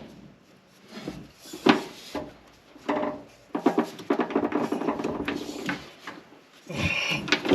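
Metal parts being handled and fitted by hand: scattered knocks and clinks, with a stretch of rapid clattering and scraping in the middle, as a clamp and pipe are put onto a truck's turbocharger.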